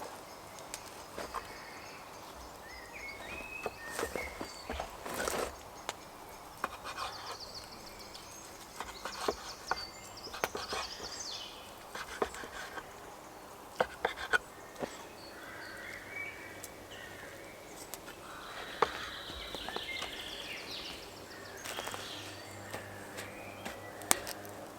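Woodland ambience: scattered small knocks and clicks, with short bird chirps now and then.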